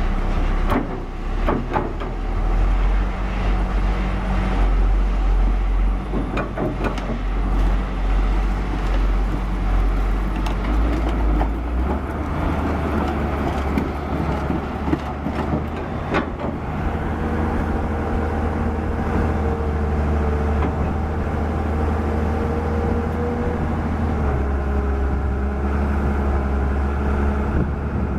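2007 Komatsu PC200LC-7 excavator's six-cylinder diesel engine running, its engine speed stepping up about twelve seconds in. Scattered metallic knocks in the first half.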